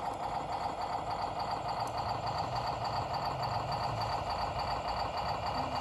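Truck diesel engine idling steadily, with an even pulsing beat.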